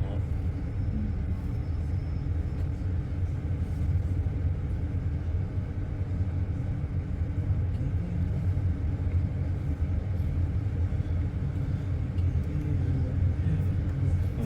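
Steady low rumble of a moving road vehicle, even throughout.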